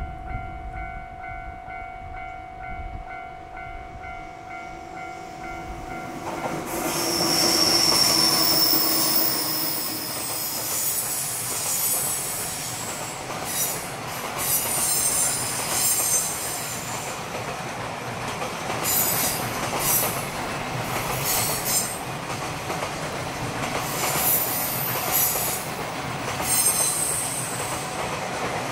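A container freight train climbing the steep grade, led by an EF200 electric locomotive, arrives about six seconds in and passes close by; the container wagons clatter over the rail joints with repeated high wheel squeal. Before it arrives, steady pulsing tones ring, typical of a level crossing bell.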